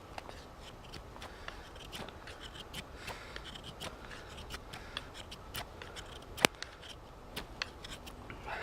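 Buck 110–style folding knife blade shaving thin curls of wood from a damp spruce branch: a run of short, light scraping strokes, with one sharper click a little after six seconds in.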